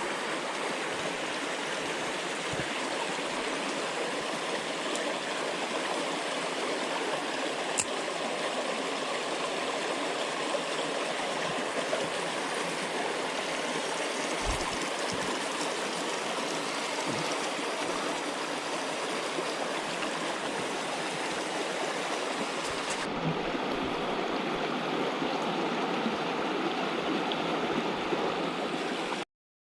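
Mountain headwater stream flowing steadily, with its tone changing slightly about 23 seconds in. It cuts off suddenly near the end.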